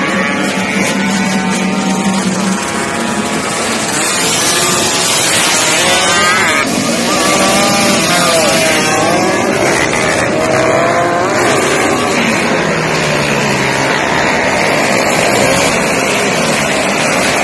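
Small drag-race motorcycle engines running close by, revved repeatedly so their pitch rises and falls, with several engines overlapping.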